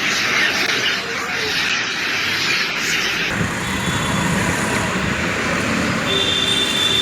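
Steady outdoor noise like road traffic, shifting to a lower rumble about three seconds in.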